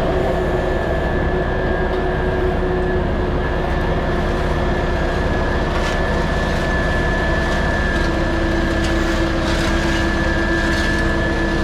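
Heavy diesel engines running steadily, with a thin, steady high whine over a low rumble, typical of road-paving machinery or heavy trucks working close by.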